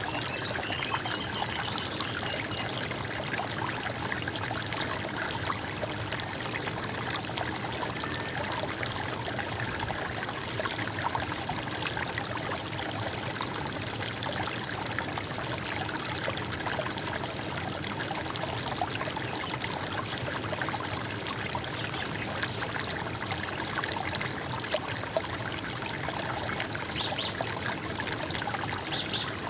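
Running water of a small stream, trickling and splashing steadily without a break.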